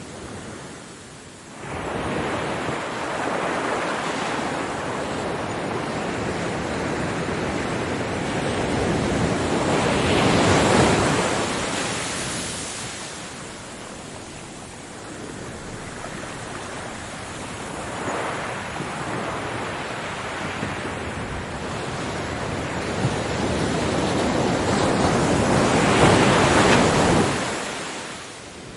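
Ocean waves breaking on a beach, the surf rising in swells and washing back, with wind noise on the microphone. A wave comes in sharply about a second and a half in, and the loudest breakers peak about a third of the way through and again near the end.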